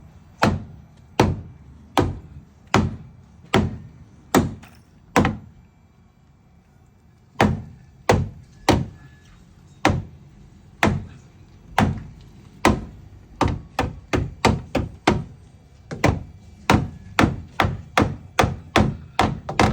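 A hammer striking again and again in a steady run, about one blow every three-quarters of a second. After a pause of about two seconds the blows resume and quicken to about two a second.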